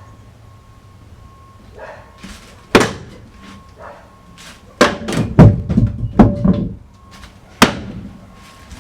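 Hand demolition of interior walls: sharp bangs and thuds of boards being struck and knocked loose. One about three seconds in, a rapid run of several in the middle, and one more near the end.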